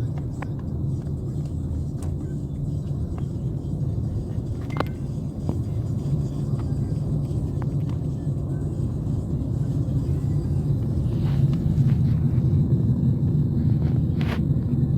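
Steady low vehicle rumble that grows somewhat louder in the last few seconds, with a few faint clicks.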